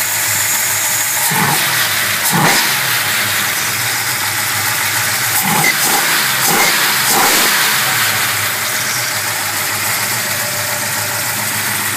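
A 512 cubic-inch stroker big-block V8 with a solid-lifter cam idles and is blipped by hand at the carburetor throttle linkage, with several short revs between about a second and seven seconds in.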